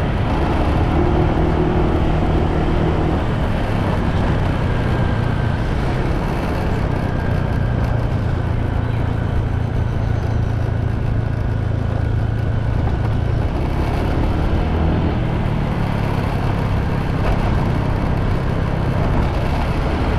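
Motorbike engine running while riding, with a steady rush of wind and road noise. The engine note drops about three seconds in and then holds steady.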